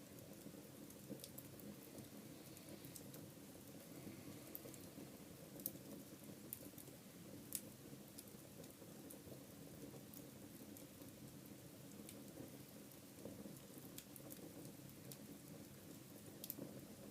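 Faint wood fire burning in a fireplace: a steady low rumble of flames with scattered small crackles, and two sharper pops about six and seven and a half seconds in.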